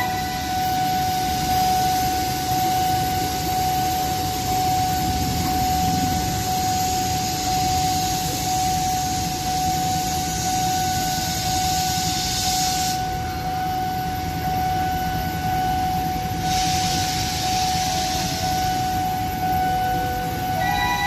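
Level-crossing warning alarm sounding one steady tone over a steady rumble of road and rail traffic. A hiss runs with it, cuts off abruptly about two-thirds of the way through, then comes back briefly.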